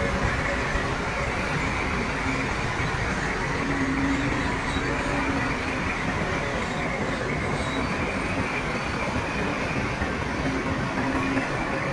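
Heavy diesel earthmoving machinery running steadily: a constant engine drone with a continuous rattle.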